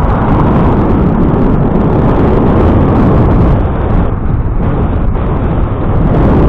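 Loud, steady wind rumble buffeting the microphone of a camera riding along on a moving bicycle.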